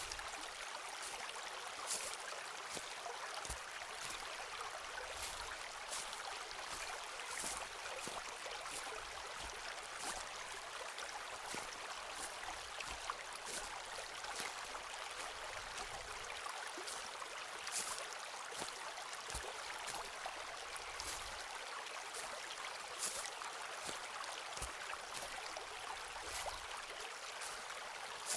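Footsteps walking on a forest floor, short crunching steps about once a second over the steady rush of a stream.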